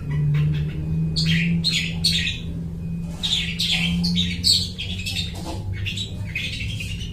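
Long-tailed shrike (cendet) singing a fast, unbroken run of short chirps and harsh notes, mimicking the calls of other birds, over a low steady hum.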